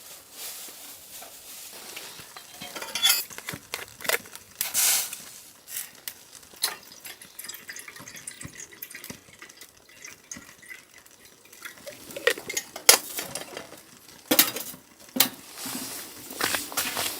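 Irregular clinks, scrapes and sharp knocks of utensils against cookware, as in stirring and handling pots and pans.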